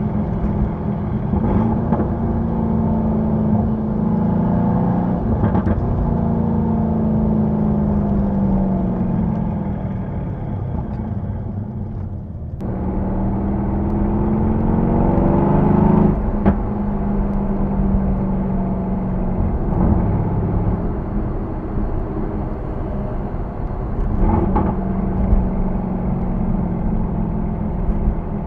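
Mercedes-AMG C63 S twin-turbo V8 on its stock exhaust while driving, a steady engine drone. About halfway through the note drops away briefly, then climbs under acceleration for a few seconds before settling back to a cruising drone.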